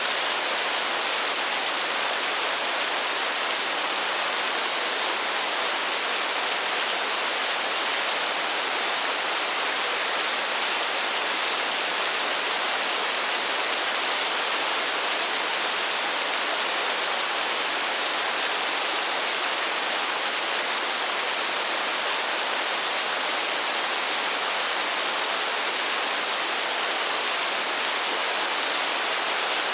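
Steady rainfall, an even hiss of rain with no separate drops standing out and little low rumble.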